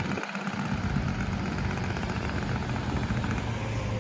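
Semi-truck running on a highway: a steady engine drone with road noise, after a brief dip in the sound just after the start.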